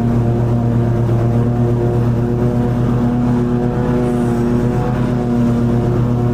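Toro TimeCutter 50-inch zero-turn riding mower running steadily while mowing long grass, its engine note even throughout.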